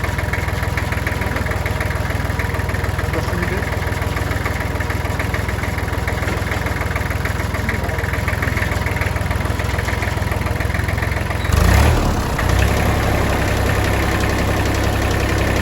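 Tractor engine idling steadily with a fast even pulse, with a brief louder burst about twelve seconds in, after which it settles back to idle.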